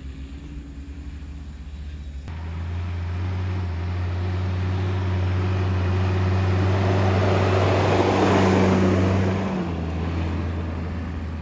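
Off-road 4x4's engine held at steady high revs on a sand course, growing louder to a peak about eight seconds in. The note then drops in pitch and level as the driver eases off.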